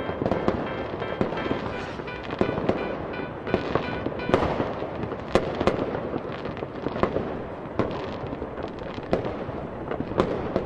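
Fireworks bursting one after another, with sharp bangs and crackles at an irregular pace over a continuous rumble, and music playing underneath.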